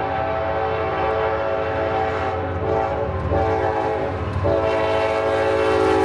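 Diesel locomotive's air horn sounding a long multi-note chord over the low rumble of the train. The chord shifts pitch about four and a half seconds in.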